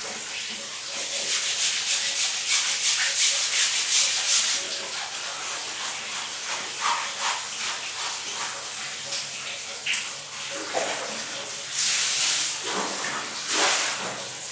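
Rubbing, scrubbing noise in bursts, as of something being washed by hand, loudest in the first few seconds and twice more near the end.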